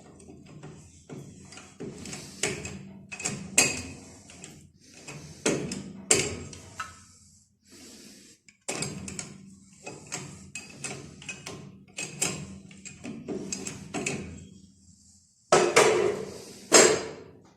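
Irregular metallic clinks and knocks of hand tools working on an engine during disassembly, with two louder knocks near the end.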